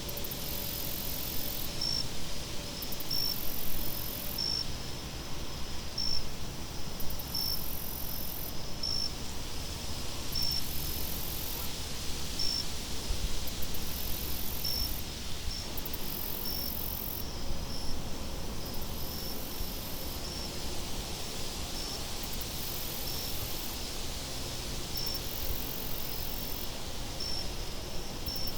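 Crickets chirping: short, regular chirps about once a second over repeating high-pitched insect trills. A low, steady rumble of wind runs underneath.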